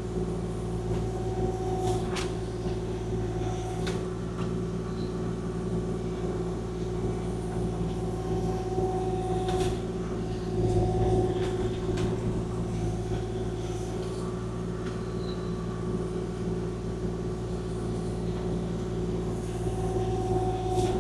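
Kubota KX040-4 mini excavator's diesel engine running steadily as the machine plows snow with its blade, with a few sharp knocks and clanks and a brief swell in engine load about ten seconds in.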